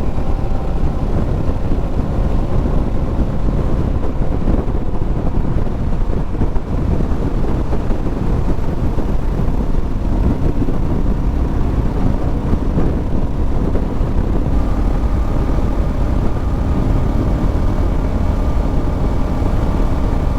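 Motorcycle running steadily at highway speed, with its engine note under heavy, even wind and road rush on the microphone.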